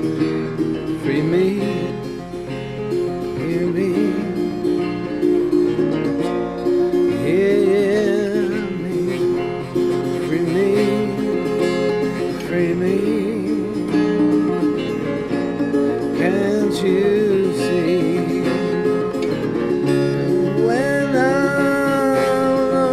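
Acoustic guitar strumming chords, with a wordless scat vocal gliding over it and holding a long rising note near the end.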